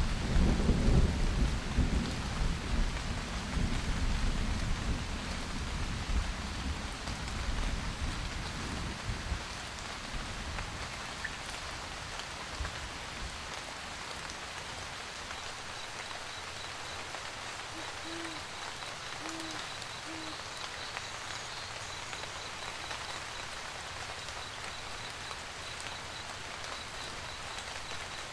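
Steady rain throughout, with a thunderclap at the start whose rumble dies away over the first ten seconds. An owl hoots three times, about a second apart, a little past the middle.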